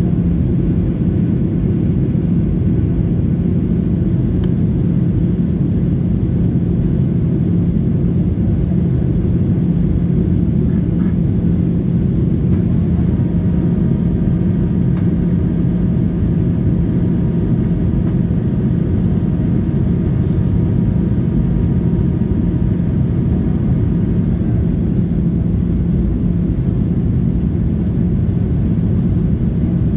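Boeing 737-800 airliner in flight, its CFM56 engines and airflow making a steady low rumble with a constant hum, heard from the passenger cabin. A faint higher hum joins in the middle and then fades.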